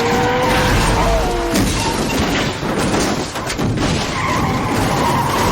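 Action-film car-crash sound effects: cars smashing together, tyres squealing and glass shattering in a dense, continuous mix.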